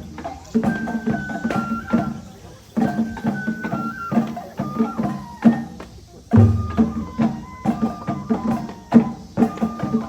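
Japanese festival hayashi music for a shishi lion dance: a high flute melody in held, stepping notes over a steady pattern of drum strokes. Twice it briefly thins out before the drums come back in heavily.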